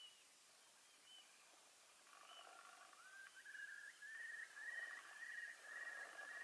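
Faint bird calls: a few short high chirps, then from about two seconds in a clear whistled note repeated about twice a second, growing louder.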